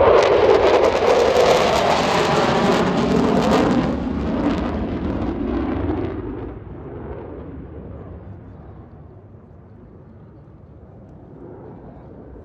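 Thunderbirds F-16 fighter jet flying past: a sudden, loud roar whose pitch slides downward as it passes, fading to a distant rumble after about six seconds.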